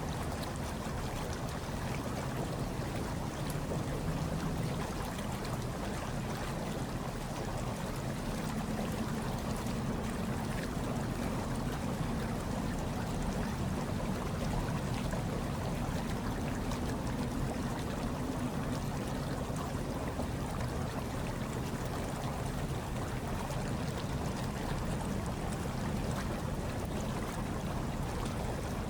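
Hot tub water churning and bubbling steadily, with a low rumble underneath.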